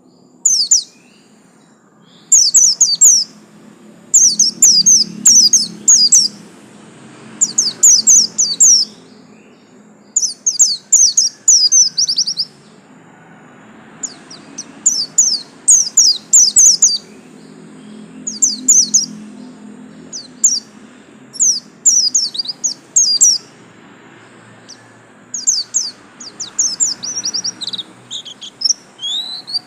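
White-eye ('pleci buxtomi', Zosterops) singing its display song: bursts of rapid, high twittering phrases a second or two long, repeated with short pauses between them.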